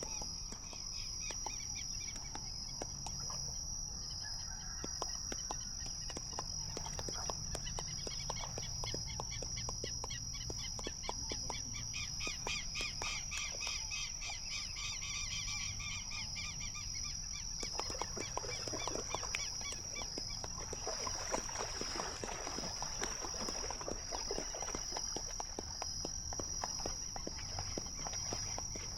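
Outdoor nature ambience: a steady high-pitched insect trill, with birds chirping over it and scattered clicks that grow busier after the middle.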